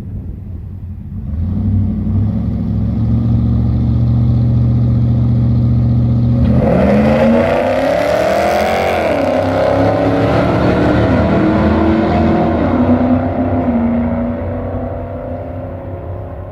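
A car engine revving hard as it passes by, its pitch rising and falling, loudest in the middle and fading near the end, over a steady engine hum that starts about a second in.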